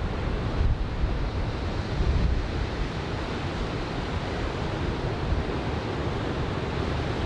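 Typhoon-swell surf breaking on a sandy beach, a steady roar of waves, with wind buffeting the microphone in low rumbles.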